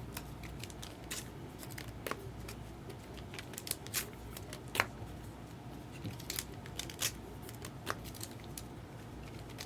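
Baseball trading cards being handled and sorted by hand: scattered light clicks and rustles of card stock at an irregular pace, over a low steady hum.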